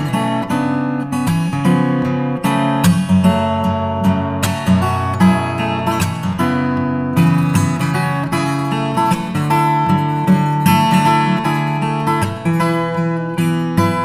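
Background music played on acoustic guitar, plucked and strummed with a steady run of notes.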